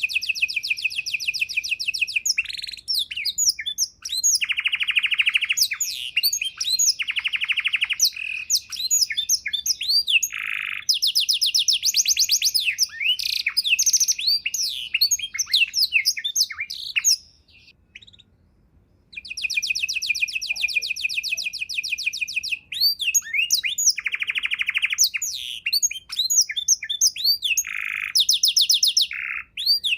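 Domestic canary singing a long, varied song of fast trills and rapid repeated chirps, full of borrowed 'isian' phrases. The song breaks off for about two seconds a little past halfway, then starts again.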